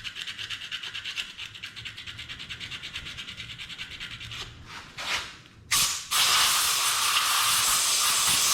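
Sandpaper rubbed quickly back and forth over the ignition breaker points of a 1974 Honda XL100, in quick, even strokes several a second, to clean the contacts so they will give spark. From about six seconds in, a loud steady hiss takes over.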